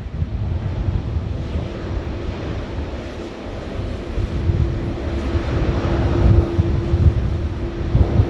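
Jet airliner engines rumbling as a plane passes, with a steady hum coming in about three seconds in and the noise growing louder toward the end. Wind buffets the microphone.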